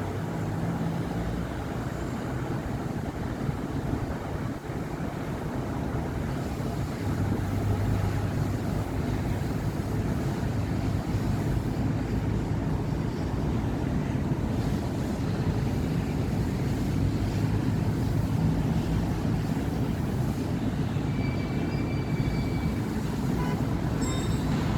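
City road traffic on a busy avenue: a steady rumble of cars and heavier vehicles driving past, with engine hum swelling and easing as they go by. Faint brief high tones come in near the end.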